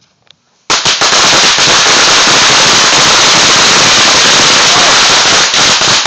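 A string of 500 firecrackers going off, bursting in with a sudden start less than a second in and then a dense, unbroken rattle of rapid bangs that stays very loud.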